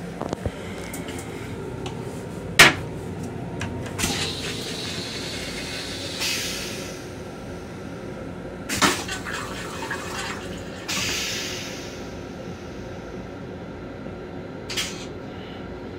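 Long Island Rail Road M7 railcar running, heard from inside its small restroom as a steady low rumble with faint hum. Scattered knocks and rattles from the restroom fittings sound over it, the loudest about two and a half seconds in, with two short hisses around six and eleven seconds in.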